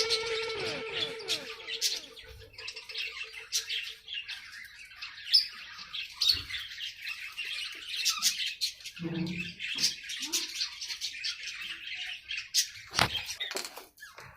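Aviary birds chirping and tweeting, many short high calls overlapping, with a few harsher squawks partway through.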